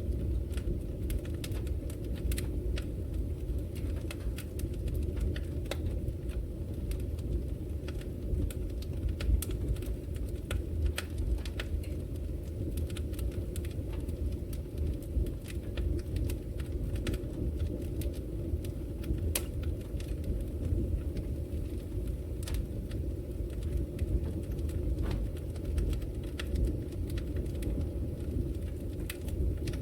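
Wood logs burning in a fireplace: a steady low rumble of the fire, with many sharp crackles at irregular moments.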